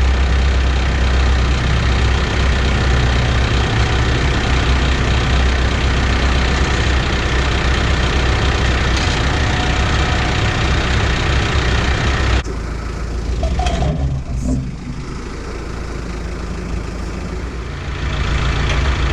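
Tractor engine running while a post hole auger drills into the ground, a steady loud drone with a deep hum. The sound drops suddenly about twelve seconds in and picks back up near the end.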